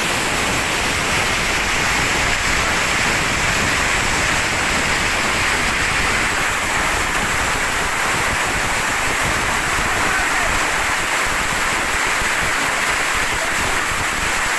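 Heavy rain mixed with hail, falling as a steady, dense hiss.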